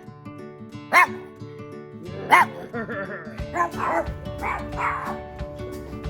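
A dog barking sharply twice, about a second in and again near two and a half seconds, then a run of shorter, wavering yelps, over background music.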